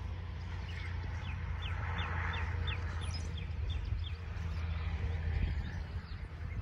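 A bird calling a quick run of about ten short, downward-sliding whistled notes, about three a second, from about a second in to about four seconds in, over a steady low rumble.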